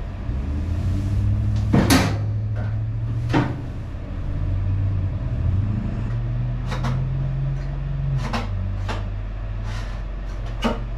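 Scattered knocks and clunks, like things being handled and set down, about six of them, the loudest about two seconds in, over a steady low hum.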